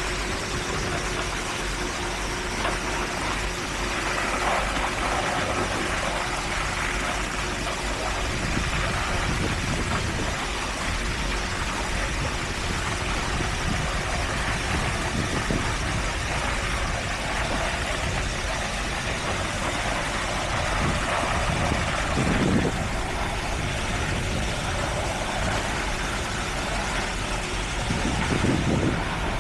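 Heavy construction-machinery engines running steadily at a road-paving site, with two brief low surges, one about two-thirds of the way in and one near the end.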